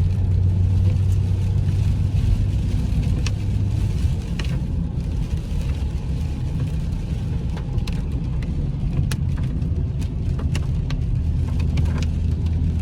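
Inside a moving car: the steady low drone of the engine and tyres on the road, with a few faint scattered clicks.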